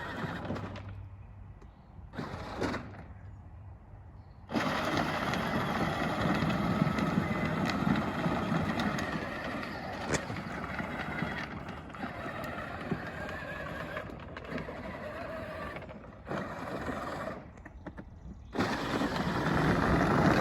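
A truck running as it is driven, a steady rumbling road and engine noise that drops away twice, early on and again near the end.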